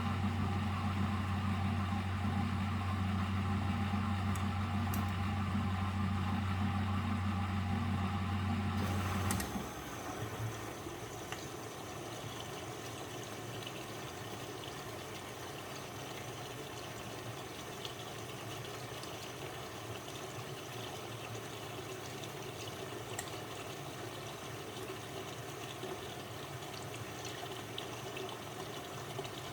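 Miele W761 washing machine: a steady low machine hum cuts off abruptly about nine seconds in. It is followed by a quieter, even sound of water running and pouring inside the machine.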